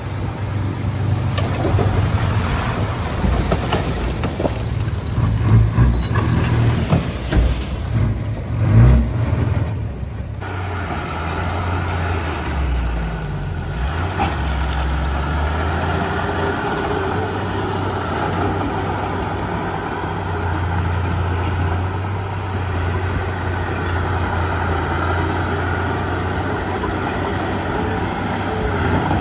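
Heavy diesel earthmoving machine running. It is uneven, with several knocks and clanks, for the first ten seconds, then settles into a steady run.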